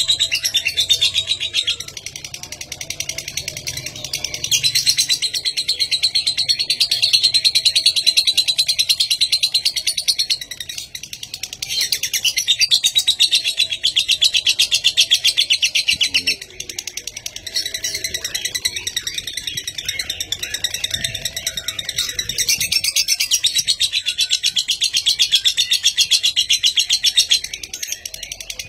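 Lovebird chattering in long, very fast ticking trills (the 'ngetik' or 'ngekek' call), each phrase running several seconds with short breaks between.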